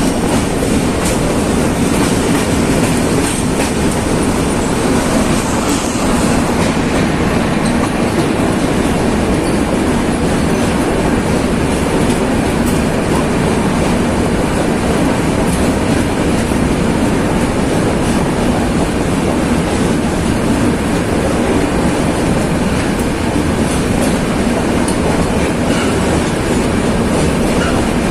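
Netravati Express passenger train running steadily at speed, heard from on board: a loud, even rumble and rush of wheels on the rails, with the clickety-clack of rail joints.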